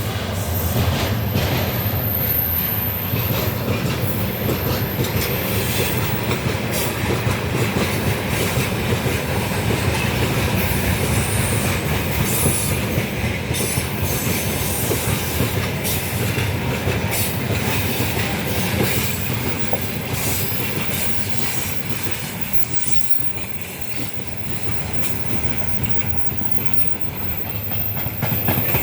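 Freight train of gondola cars rolling past steadily, wheels clattering over the rail joints with some wheel squeal.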